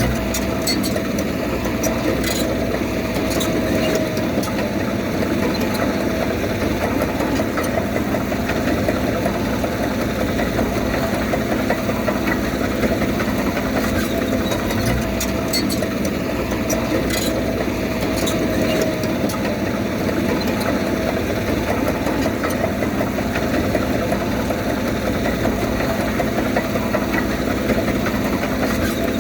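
Heavy machinery's diesel engine running steadily under light load, with a few faint clicks here and there.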